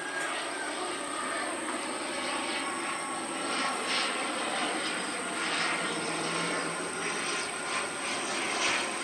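Jet airliner's engines running as the aircraft passes: a steady rushing noise with faint whining tones over it.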